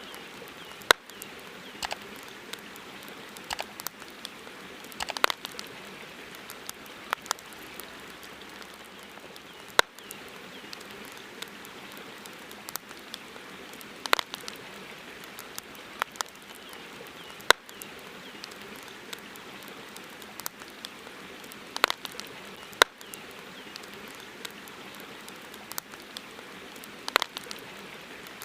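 Campfire crackling: irregular sharp pops and snaps from burning wood, a few much louder than the rest, over a steady hiss.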